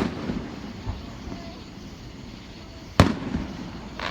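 Aerial fireworks shells bursting at a fireworks display: a sharp bang at the start and another about three seconds in, each trailing off in a low rumbling echo.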